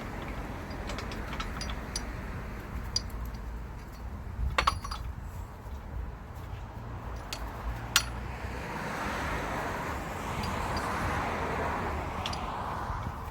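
Scattered metallic clinks and clatter of tools and parts during work on a car, over a steady low rumble, with two sharper clinks about four and a half and eight seconds in and a hiss that swells in the second half.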